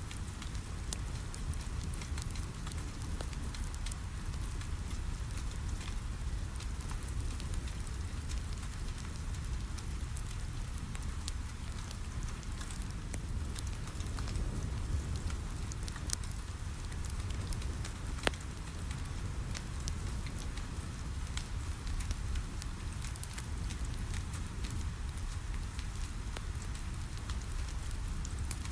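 Wood fire crackling with scattered small pops over steady rain, with a low rumble underneath; one sharper pop stands out about two-thirds of the way through.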